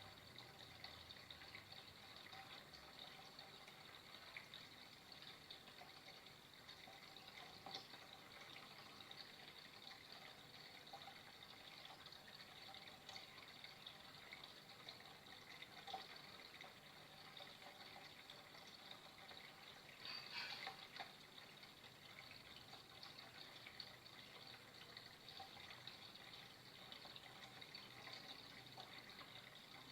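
Faint, steady sound of flowing water, trickling and splashing, with a brief louder gush about two-thirds of the way through.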